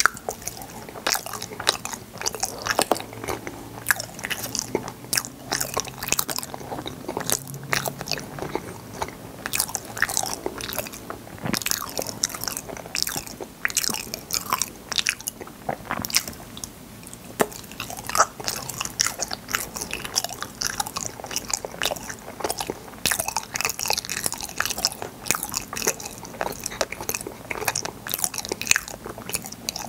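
Close-miked biting and chewing of fruit-shaped yanggaeng jelly sweets: many small, sharp, irregular clicks and crunches of the sweets being bitten and chewed.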